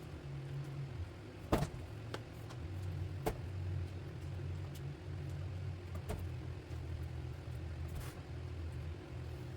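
Cooked vegetables being scooped out of a pressure cooker, the scoop knocking sharply against the pot a few times over a steady low hum.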